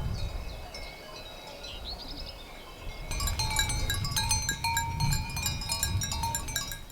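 Birds chirping, then from about three seconds in, small bells ringing in quick irregular strikes, several clear tones overlapping, until they stop suddenly.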